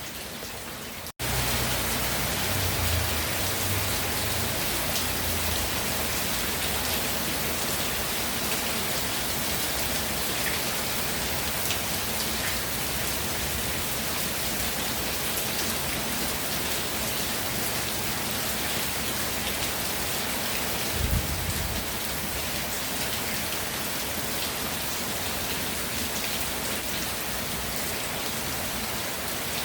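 Rain falling steadily, an even hiss of drops. About a second in the sound drops out for an instant and comes back louder, and a short low thud is heard about two-thirds of the way through.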